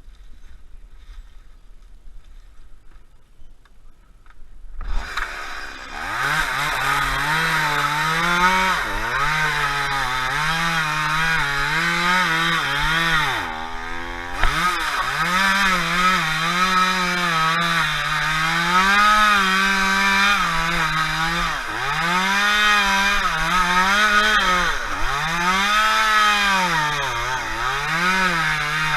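Chainsaw comes in loudly about five seconds in and runs on, its engine pitch rising and falling over and over as it is revved and loaded, with one brief drop and pick-up about halfway through.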